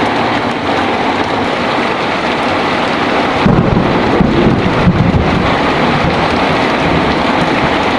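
Heavy rain falling steadily, with a low roll of thunder rising about three and a half seconds in, strongest for about two seconds, then fading under the rain.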